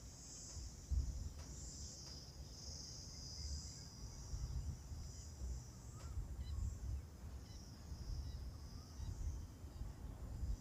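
A steady, high-pitched insect chorus, crickets or cicadas, drones on and swells slightly, over a low, uneven rumble.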